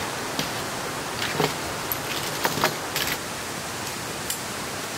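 Steady hiss of rain, with a scattered handful of short, sharp clicks and taps over it.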